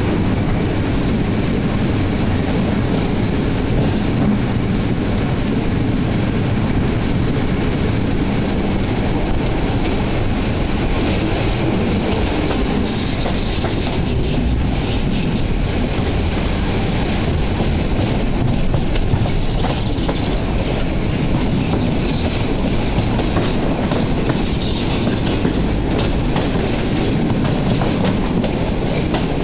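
Passenger train running out of a station, heard from an open carriage window: a steady rumble of wheels on the rails with clickety-clack over joints and points. A brief higher-pitched screech from the wheels comes twice, about thirteen seconds in and again near twenty-five seconds.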